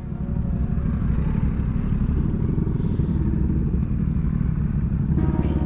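Honda Grom's single-cylinder engine with an aftermarket Zoom Loop exhaust running steadily under way, its note stepping up a little near the end.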